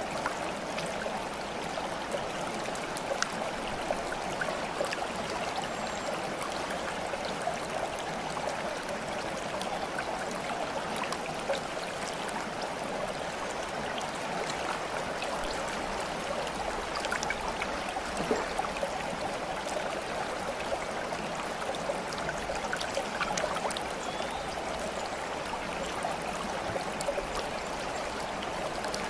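Steady flowing, trickling water, with small splashes and drips scattered throughout.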